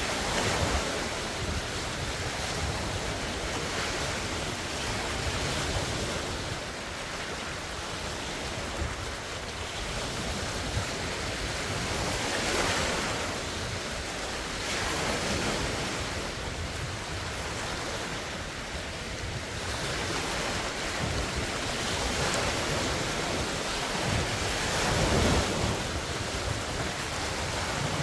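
Large wind-driven lake waves breaking and washing ashore, swelling and easing every few seconds, with strong wind buffeting the phone's microphone.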